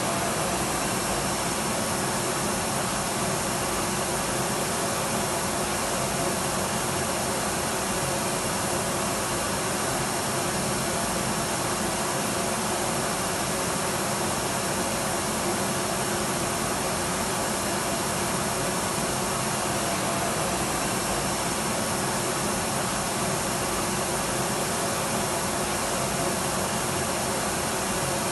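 Electric vacuum cleaner running steadily, an unchanging whooshing hum with a faint steady whine.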